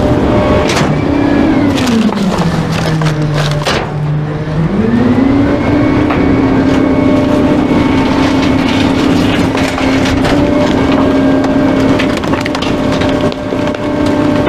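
Garbage truck's compactor crushing bulky items, with repeated cracking and splintering over the truck's engine. The engine note drops in pitch about two seconds in and climbs back about five seconds in.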